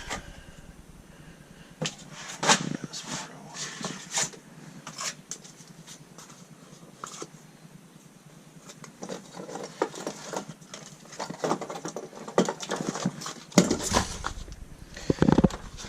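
Irregular clicks, taps and rustles of hand work on bitumen sound-deadening mats being fitted to a car floor, with a denser run of louder knocks and handling noise near the end.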